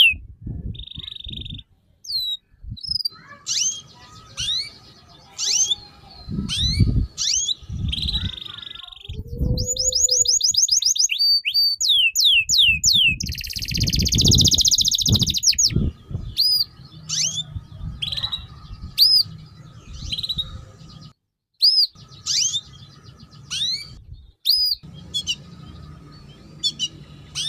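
Songbird singing a busy song of sharp sweeping chirps, quick repeated whistled notes and short trills, with a few bursts of low rumble in between.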